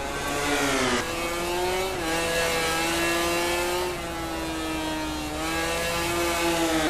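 MotoGP racing motorcycle's four-cylinder 1000 cc four-stroke engine at high revs. The note falls for about a second, jumps back up, then holds high with small shifts in pitch through the gears.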